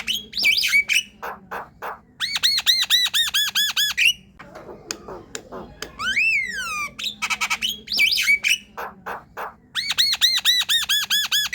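Javan myna singing a varied chatter of gliding whistles and sharp clicks, then a rapid run of about ten repeated arching notes. The whole phrase comes round twice.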